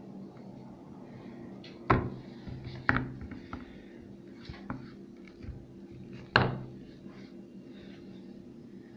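Three sharp snaps or knocks from handling a Milka whole-almond chocolate bar, about two seconds in, a second later, and the loudest near the end, with faint clicks between them over a steady low hum.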